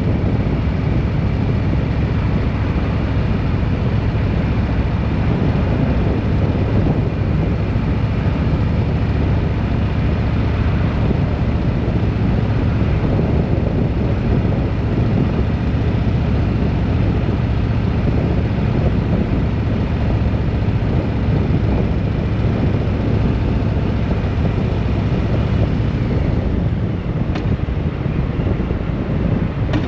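A vehicle on the move: steady engine and road noise, easing slightly near the end.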